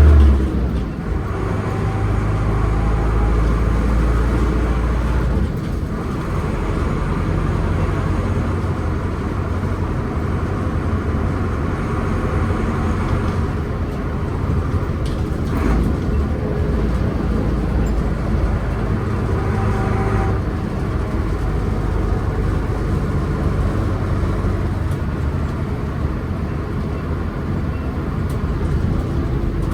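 Diesel engine of a 1988 Mercedes-Benz 811D fire truck running steadily with a low drone, its pitch stepping down about half a second in and again around five seconds in.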